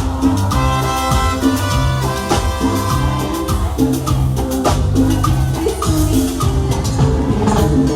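Live salsa band playing an instrumental passage: steady bass line, hand percussion with maracas, and a run of held brass notes early on.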